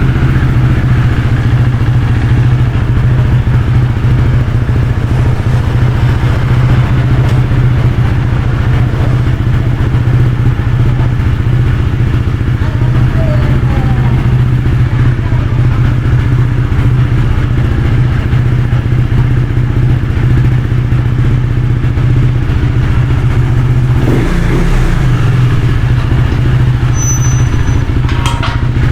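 KTM Duke 390's single-cylinder engine idling steadily through an Akrapovic slip-on exhaust, just after starting. The note briefly changes near the end.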